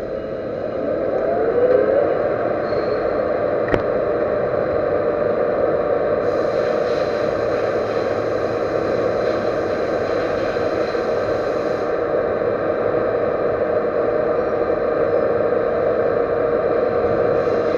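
Metal lathe running steadily with a constant whine, its pitch rising briefly about a second in as it comes up to speed, with a single sharp click near four seconds and an added hiss in the middle.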